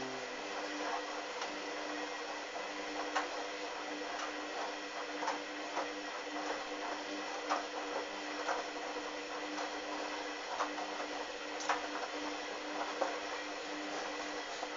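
Hoover Dynamic washing machine in the main wash: the drum motor hums steadily while the wash tumbles, with irregular sharp clicks and knocks about once a second.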